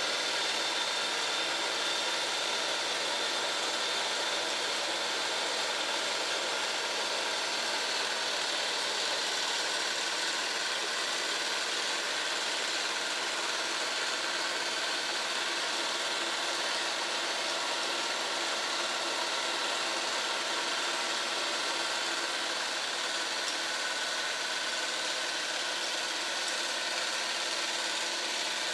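Wilesco D18 toy live-steam engine running steadily, driving a model workshop of belt-driven machines.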